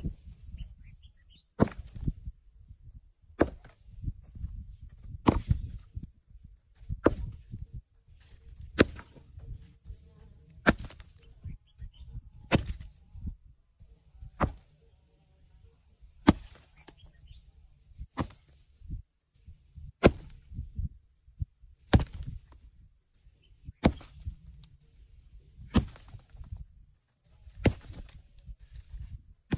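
Steady chopping with a hand tool: sharp blows at an even pace of about one every two seconds, some sixteen in all, with low rustling and knocking between strokes.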